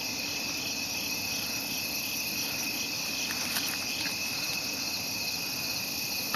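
Crickets and other insects chirping steadily in a continuous chorus, with a few faint ticks about halfway through.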